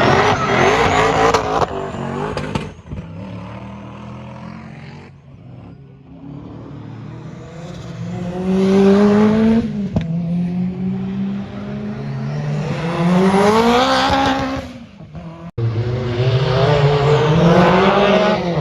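Car engines accelerating hard, their pitch climbing steeply several times as they rev up, in a series of short clips separated by abrupt cuts.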